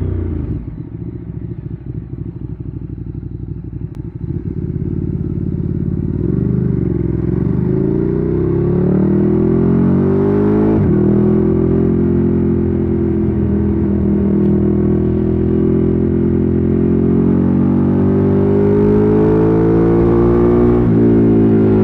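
Ducati Streetfighter 848's L-twin engine through a Termignoni exhaust. It drops to a lumpy, low-revving beat for a few seconds, then pulls away with the revs rising. There is a gear change about eleven seconds in, the revs climb again, and there is another shift near the end.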